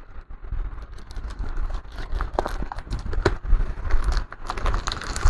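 Sellotape being pulled off the broken laptop's plastic casing and crumpled, making a run of irregular crackles and small clicks.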